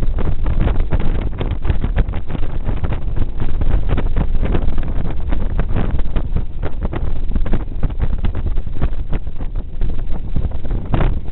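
Wind buffeting the microphone of a moving touring motorcycle in uneven gusts, over the low, steady drone of its engine.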